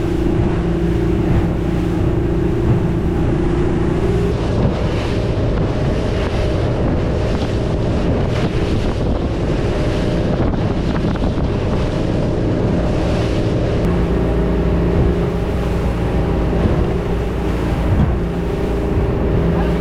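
Outboard-powered boat running at speed through choppy seas: a steady engine drone under heavy wind buffeting on the microphone and the rush and slap of the hull through the chop. The engine note shifts slightly about four seconds in.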